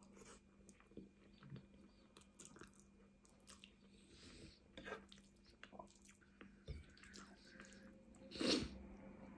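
Faint chewing and wet mouth sounds of someone eating spaghetti bolognese, with scattered soft clicks and smacks. A louder, brief burst of noise comes about eight and a half seconds in.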